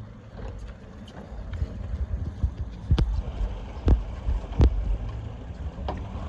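Sport-fishing boat's engines running with a steady low hum, with wind buffeting the microphone. Four sharp knocks come in the second half.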